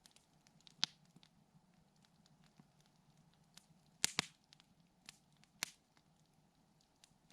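Wood campfire crackling: sparse sharp pops and snaps, the loudest a quick double pop about four seconds in, over a faint steady low hum.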